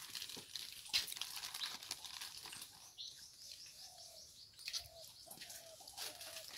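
Birds calling in the background: a run of short high chirps about three seconds in, then several short low cooing notes of a dove through the last couple of seconds. A light knock about a second in.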